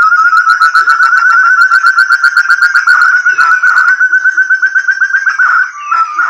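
Call of a forest partridge (puyuh hutan, burung terung): a fast, even run of clear whistled notes, many a second, going on without pause until a short break near the end.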